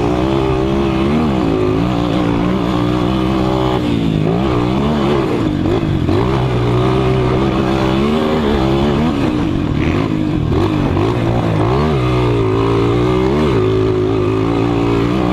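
A 200 cc motocross motorcycle engine is revving hard and easing off over and over. Its pitch climbs and drops every second or two as it accelerates and shifts.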